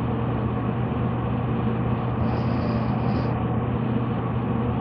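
Steady mechanical drone with a constant low hum, unchanging throughout, with a faint higher hiss for about a second in the middle.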